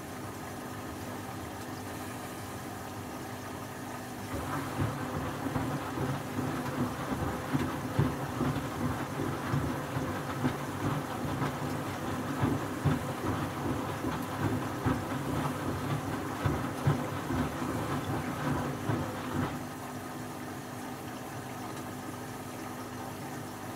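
Front-loading washing machine washing bedding. A steady motor hum runs for about four seconds, then the drum turns with uneven sloshing and soft thumps of the wet load for about fifteen seconds, then the steady hum returns.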